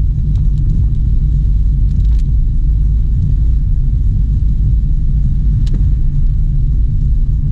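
Steady low rumble of a car driving, with a couple of faint clicks.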